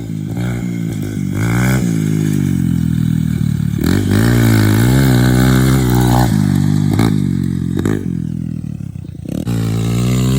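Four-stroke Honda CRF dirt bike engine being ridden hard, its pitch rising and falling again and again with throttle and gear changes. It falls away about eight seconds in, then picks up again near the end.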